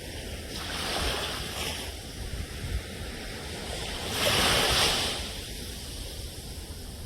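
Ocean waves breaking and washing on the shore: a steady surf hiss that swells and ebbs, with a bigger wave surging in about four seconds in.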